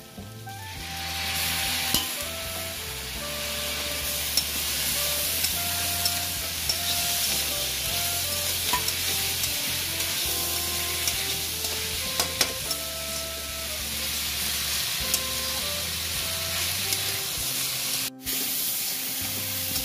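Onions, tomatoes and bell peppers sizzling in oil in an aluminium kadai while a metal spatula stirs them, with a few sharp scrapes and taps against the pan. A soft melody plays underneath.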